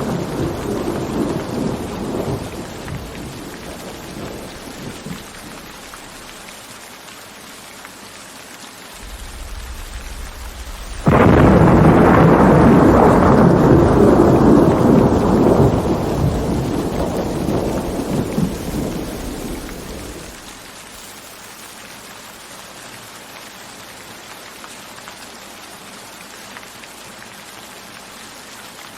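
Thunderstorm with steady rain. A rumble of thunder fades over the first few seconds; about eleven seconds in a sudden loud thunderclap breaks and rolls on for several seconds before dying away, leaving the rain alone.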